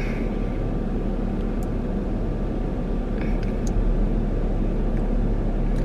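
Steady low rumble inside a car cabin, the stationary car's engine running at idle, with a few faint clicks.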